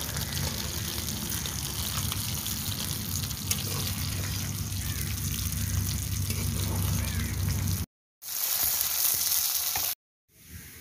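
Stuffed pointed gourds frying in hot oil in a metal kadai: a steady sizzle with a low hum underneath. The sound cuts out abruptly twice near the end.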